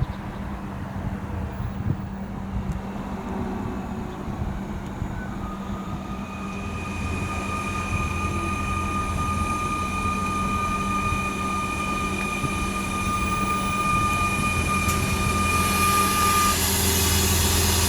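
An electric train approaching the station, growing steadily louder, with a steady high-pitched whine that starts about a third of the way in and cuts off near the end.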